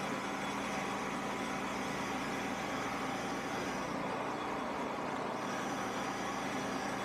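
Shopsmith's motor running steadily with an even hum and hiss. The hiss thins a little for a second or so about four seconds in.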